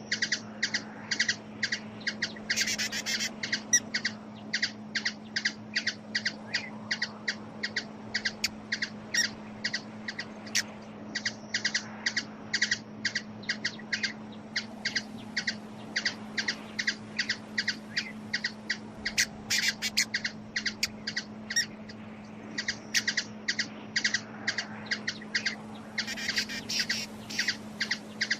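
A small bird calling in a long series of short, high chips, about three a second, with a few denser flurries, over a steady low hum.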